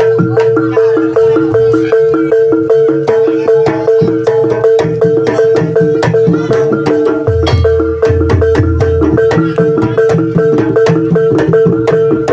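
Javanese ebeg (horse-dance) accompaniment music: tuned mallet percussion struck in a fast, even pattern of about four strokes a second over a steady held tone, with deep low strokes joining about seven seconds in.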